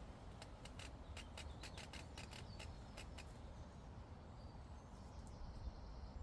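A quick, irregular series of about a dozen sharp snipping clicks over three seconds, typical of a llama cropping grass. A steady low wind rumble runs throughout.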